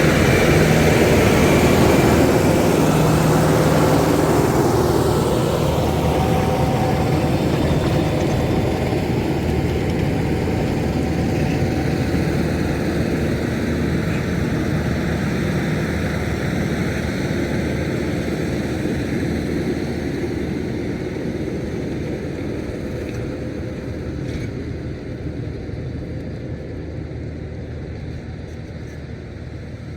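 Tractor engine running steadily, growing gradually quieter as it moves away, with a falling pitch glide over the first few seconds.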